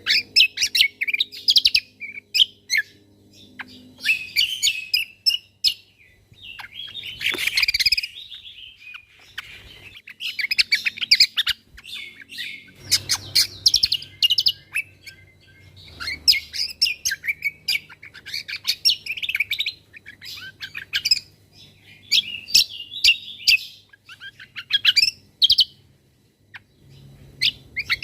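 Cucak kombo songbird singing rapid-fire 'tembakan' phrases: quick runs of high, sharp chirps lasting a second or two each, with short pauses between them.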